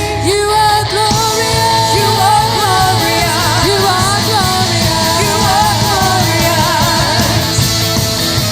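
Worship band music with singing: a sung melody over sustained chords, with a steady drum beat coming in about a second in.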